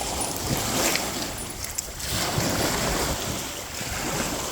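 Small waves washing onto the beach, with wind buffeting the microphone; the surf swells a little about two seconds in.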